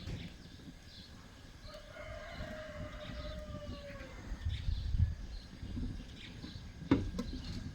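A rooster crowing once: one long call of about two and a half seconds that dips slightly at its end. A sharp knock follows near the end.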